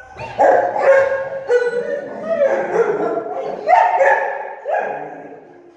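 Rottweiler barking in a run of about six loud, drawn-out barks that trail off near the end.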